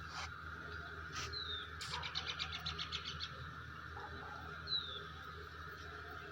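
Small birds calling faintly: a few short, falling chirps, and a quick trill of about eight notes a second starting about two seconds in.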